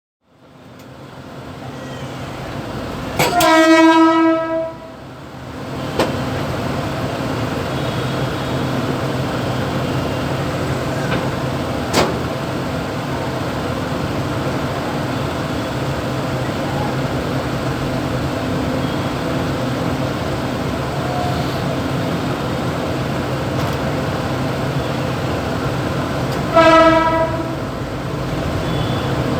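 Mumbai suburban electric multiple-unit (EMU) train heard from the motorman's cab, running with a steady rumble and low hum. The train's horn sounds one long blast a few seconds in and a shorter one near the end.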